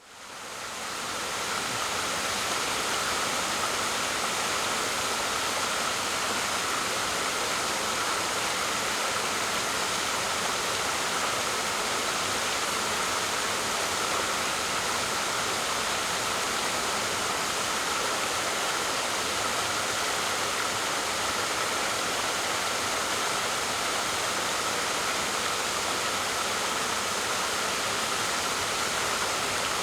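Waterfall: a steady, dense rush of falling water that fades in over the first second or two and then holds even.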